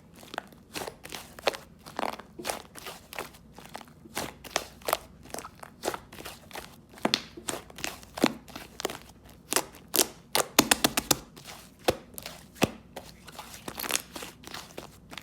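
Clay-mixed slime being squished and pressed by hand, making irregular sticky clicks and pops. A quick run of clicks comes about ten and a half seconds in.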